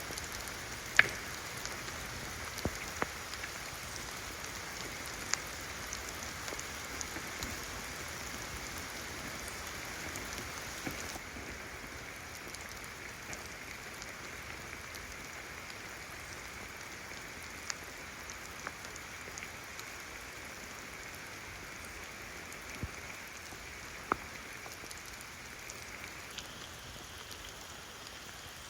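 Steady rainfall, with occasional single heavier drops landing close by as sharp ticks. The rain turns a little softer about eleven seconds in.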